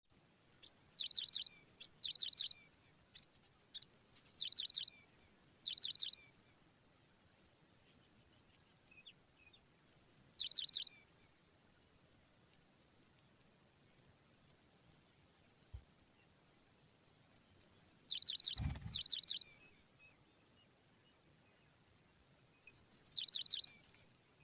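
Pipit nestlings begging: short bursts of rapid, high chirps, several in the first six seconds, then again around halfway and near the end. Between the bursts runs a steady series of thin single chirps, about two a second. A low thump comes in with one burst about three-quarters of the way through.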